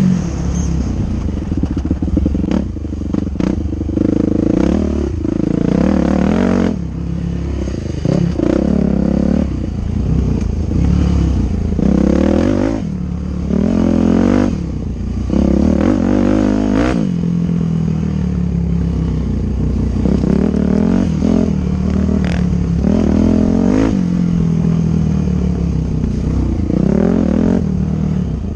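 Dirt bike engine running hard, its pitch climbing and dropping over and over as the throttle is opened and shut, with a few sharp clacks along the way.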